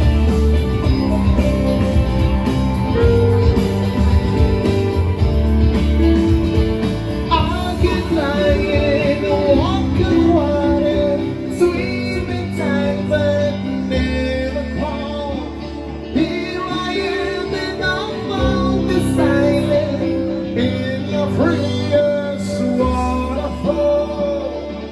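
Live band playing a song, with guitar and a sung vocal line coming in about seven seconds in; the music fades near the end.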